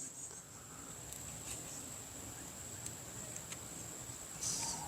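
Quiet background with a faint, steady high-pitched insect drone, broken by a few light clicks and a short rustle near the end from handling the trimmer's parts.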